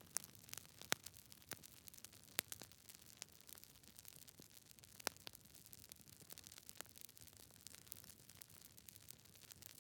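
Wood fire crackling in a fireplace: irregular pops and snaps over a soft low hiss, with the loudest snaps about a second and two and a half seconds in.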